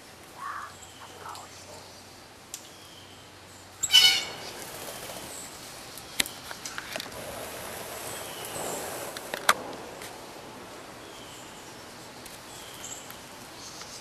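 Wild birds calling in woodland: one loud, harsh call about four seconds in, then a few faint, short falling notes. A couple of sharp clicks are heard near the middle.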